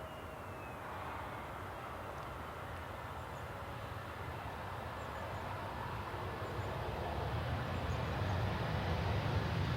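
Jet airliner drawing closer: a steady rush of engine noise that grows louder, with a deep rumble building over the last few seconds and a faint high whine dropping in pitch near the start.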